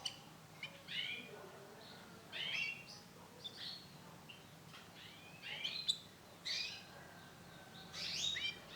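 Female canary giving short chirping calls, each a quick arching note that falls in pitch, about six of them a second or so apart, with a few sharp clicks in between.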